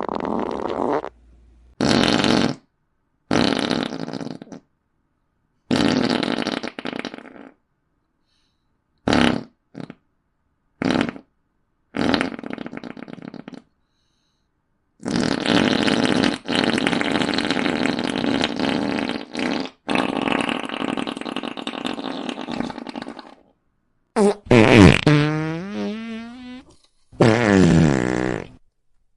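Fart sound effects played one after another with silent gaps, about a dozen in all: some short blasts, some long drawn-out ones lasting several seconds. Near the end two of them have a wavering, sliding pitch.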